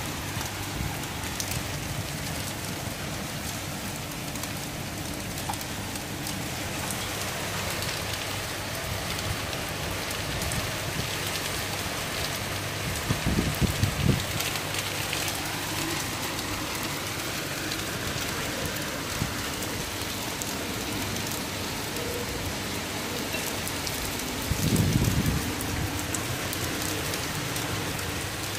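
Steady rain falling on wet tiled paving, an even hiss of drops throughout. Two brief low rumbles come through it, about halfway and again near the end.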